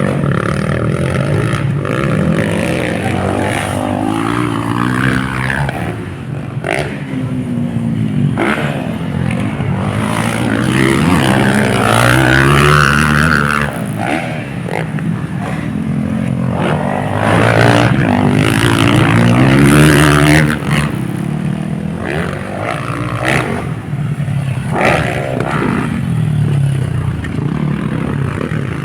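Motocross dirt bikes racing, several engines revving up and dropping off again and again as riders accelerate and back off, loudest as the bikes come closest.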